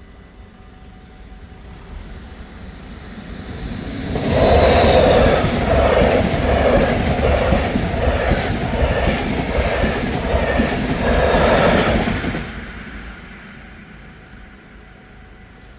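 NS DDZ double-deck electric train passing the level crossing at speed, its wheels clattering rhythmically over the rail joints. The sound builds over about four seconds, stays loud for about eight, then fades away.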